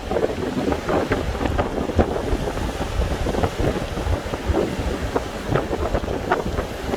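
Strong wind buffeting the microphone in irregular gusts over the sound of big waves surging in.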